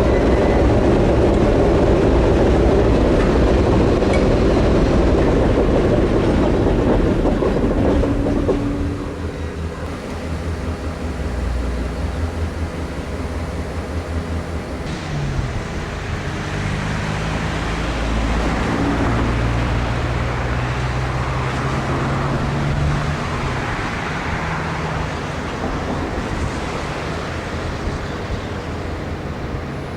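A diesel freight train rolling over the rails, with dense wheel-and-rail rumble that drops away about eight seconds in. After that a diesel locomotive's engine runs on with a steady low drone that shifts in pitch a few times.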